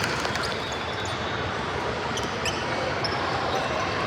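Gym ambience during a game: a steady wash of crowd and room noise, with a few faint short squeaks or taps about two to three seconds in.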